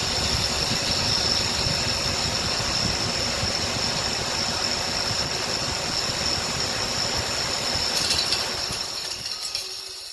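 Draft inducer motor of a Carrier 58SSB gas furnace running, a steady high whine over an even rushing noise and an uneven low rumble, fading near the end.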